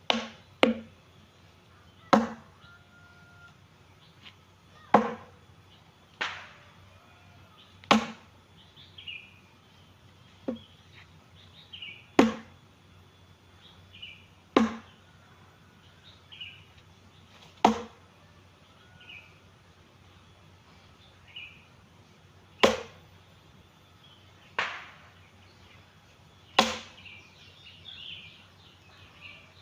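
Firewood being chopped by hand: a blade strikes the wood about every two to three seconds, each chop sharp and short, some louder and some lighter.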